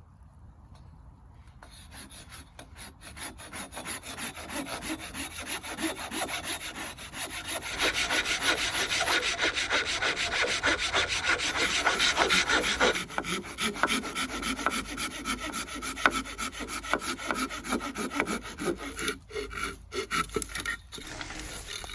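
Wood being sawn by hand, a long run of quick back-and-forth saw strokes that grows louder toward the middle and tails off near the end.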